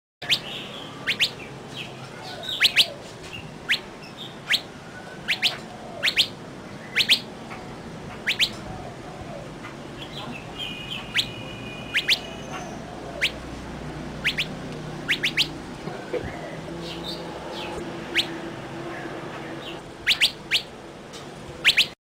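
Small birds chirping: many short, sharp, high chirps repeated at irregular intervals over a low steady background, with a brief held whistle-like note about halfway through.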